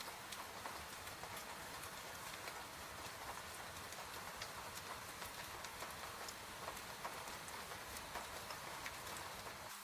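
Steady rain hiss with frequent small crackles and pops from a wood fire scattered through it.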